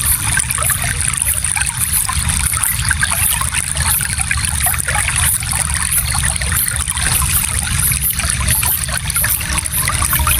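Shallow stream flowing steadily, water trickling and splashing over stones in a continuous rush.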